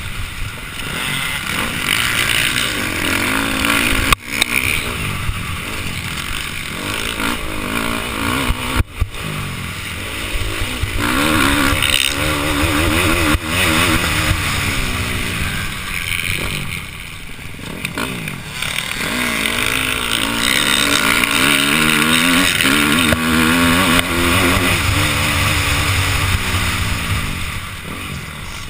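Motocross dirt bike engine revving hard, its pitch climbing and dropping back again and again as the bike accelerates and shifts, over steady wind rush on a helmet-mounted camera.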